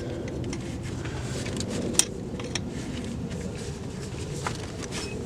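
Scattered light clicks and taps of a socket and hand tools working on engine bolts, with one sharper metallic click about two seconds in, over a steady low background hum.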